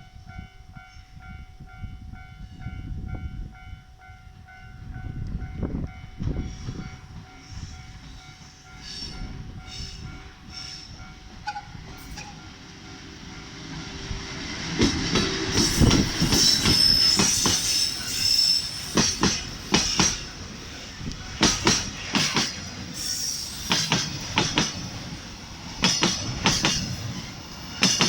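Freight train hauled by an EF81 electric locomotive rolling past, faint for the first half behind a steady tone, then louder from about halfway with wheels squealing and a run of clacks as the wagons cross rail joints.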